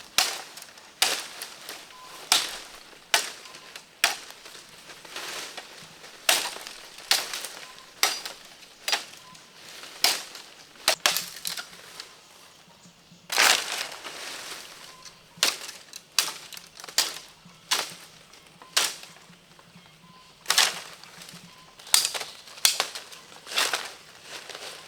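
An irregular series of sharp cracks and crunches, roughly one a second, with a longer crunching stretch about halfway through, as of something being snapped, crushed or chopped by hand.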